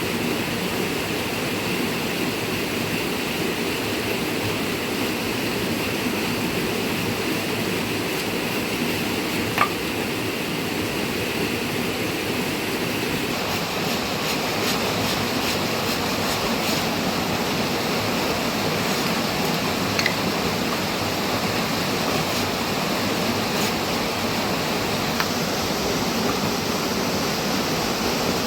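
Steady rushing of water, a heavy even hiss that turns brighter about halfway through, with a few faint isolated clicks.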